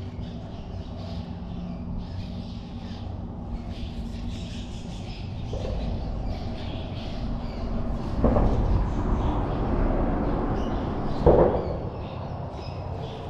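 Birds calling repeatedly in short squawking calls. Two louder rushes of broad noise come about 8 and 11 seconds in.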